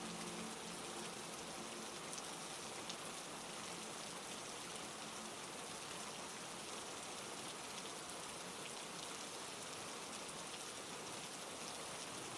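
Heavy rain falling steadily: an even hiss of many drops, with no let-up or change.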